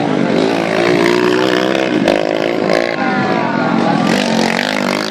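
Several motocross bikes racing, their engines revving up and down over one another as the riders accelerate and shift.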